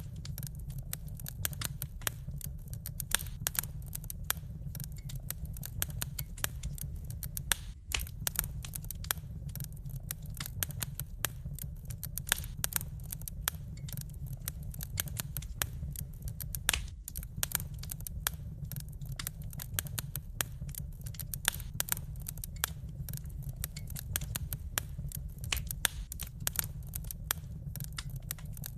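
Wood fire burning in a fireplace: dense, irregular crackling and popping over a steady low rumble of the flames. The sound drops out briefly twice, once about eight seconds in and again around seventeen seconds.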